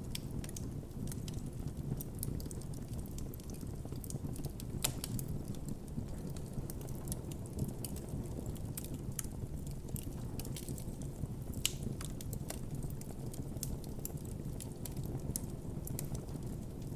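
Wood campfire burning with a steady low rush of flame and irregular crackles and pops, a few louder snaps among them.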